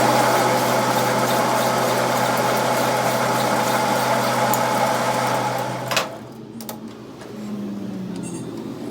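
A workshop machine running steadily with a loud hiss over a low hum, cutting off suddenly about six seconds in; a quieter motor-like sound follows.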